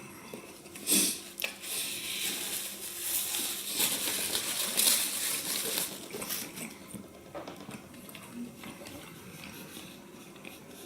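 Close-up wet chewing and mouth sounds of someone eating beef tongue in sauce, with many small clicks and smacks. It is busiest and loudest in the first half and softer after about six seconds.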